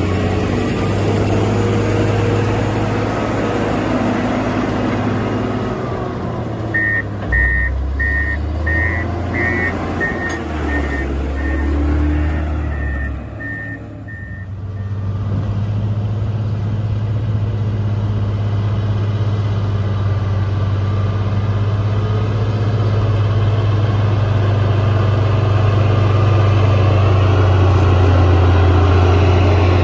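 Motor grader's diesel engine running under load, with its reversing alarm beeping in a steady series for several seconds partway through. The engine sound eases off briefly just after the beeping stops, then builds again.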